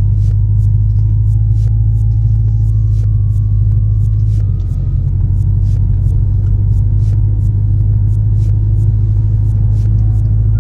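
2005 Mercury Grand Marquis's 4.6-litre V8 running steadily with its mufflers deleted, a deep exhaust rumble. Light, irregular ticks sound over the rumble.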